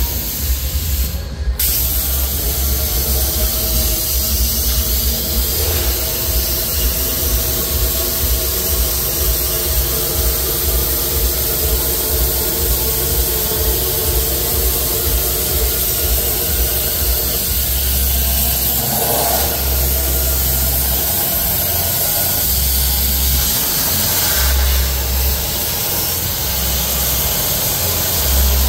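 CNC plasma torch cutting sheet metal, a loud steady hiss over a low hum.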